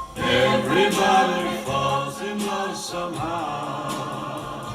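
Music with singing voices over a bass line, played through a Sonos Five² wireless speaker and picked up by binaural microphones in the room. It is loudest in the first second or so, then eases off.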